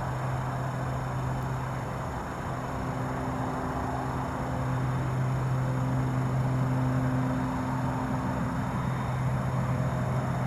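Antonov An-22 on its landing approach, its four contra-rotating turboprops giving a continuous low hum with a steady tone, growing a little louder about halfway through.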